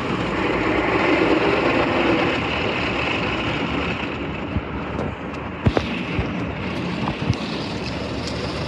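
Automatic tunnel car wash equipment working over the car, heard from inside the cabin: a loud, steady rushing roar, with a few sharp knocks from about halfway through.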